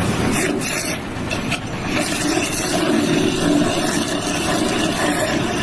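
A vehicle or machine engine running, heard as steady, dense noise with no clear pitch.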